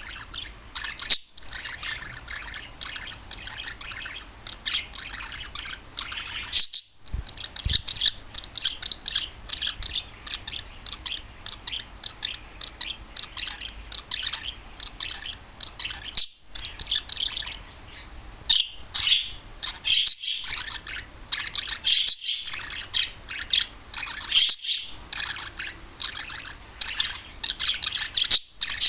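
Male budgerigar warbling: a long, continuous stream of rapid chirps and chatter, with sharp loud chirps here and there.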